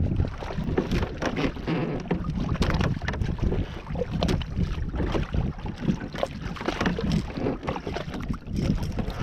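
Water splashing and slapping irregularly against a Hobie Tandem Island sailing kayak's hull, with wind buffeting the microphone.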